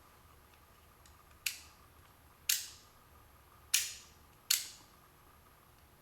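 Four sharp metallic clicks, each with a short ringing tail, about a second apart, from small steering-column ignition lock parts being handled and worked.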